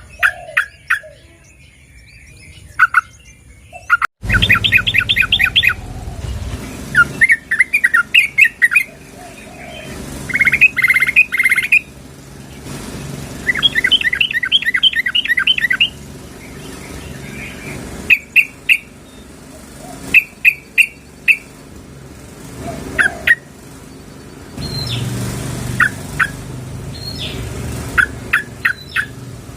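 Yellow-vented bulbul (trucukan) calling: runs of rapid bubbling notes alternating with short sharp chirps, repeated at intervals. The uploader presents it as a female calling a male. The background hiss steps up suddenly about four seconds in.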